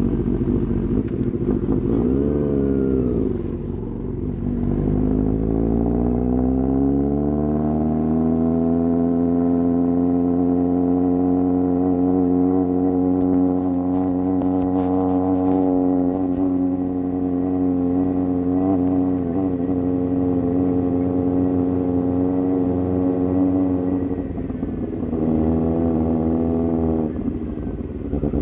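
Suzuki GSX-S750's inline-four engine through an aftermarket sport exhaust, under way: it revs briefly, then pulls with a long, smooth rise in pitch and settles to a steady cruise, with a short dip about 24 seconds in and another drop near the end.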